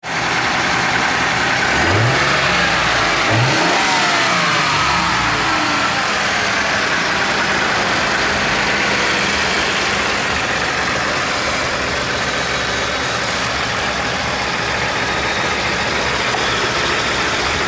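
Ford 2.7-litre EcoBoost twin-turbo V6 running. It is revved briefly twice, about two and three and a half seconds in, then settles to a steady idle.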